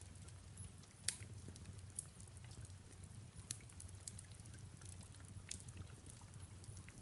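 Faint wood fire crackling, with scattered sharp pops, the loudest about a second in, over a soft steady rain hiss and a low rumble.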